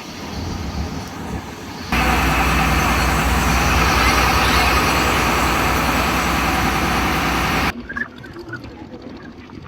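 Boat engine running loud and close, a steady low rumble with a broad hiss over it; it cuts in abruptly about two seconds in and cuts out just as suddenly near the end.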